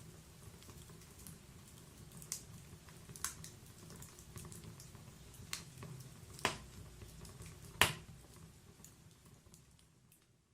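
Wood fire burning in a fireplace: a low steady rumble of the flames with scattered sharp crackles and pops from the logs, the loudest pop about eight seconds in. The sound fades out near the end.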